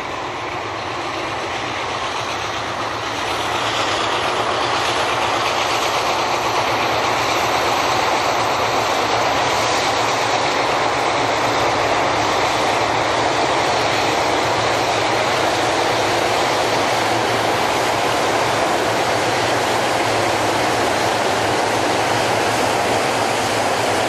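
Freight train passing: Green Bay & Western Alco diesel locomotives working under power, smoking hard, along with the steady run of freight-car wheels on the rails. The sound grows louder about three to four seconds in and then holds steady.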